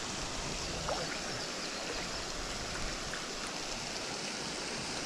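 Steady rush of river current flowing: an even water hiss with no distinct events.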